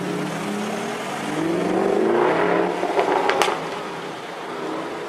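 Supercar with an Akrapovič exhaust accelerating, the engine note rising in pitch and loudness, then a few sharp exhaust pops about three seconds in before the sound drops away.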